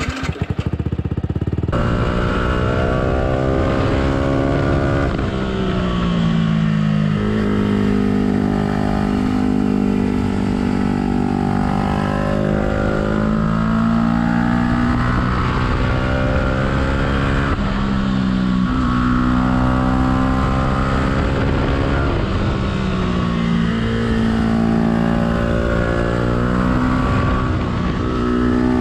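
Yamaha YZF-R125's single-cylinder four-stroke engine under way, running through a Black Widow exhaust with the dB killer removed. Its revs climb and then drop sharply at each gear change, several times over.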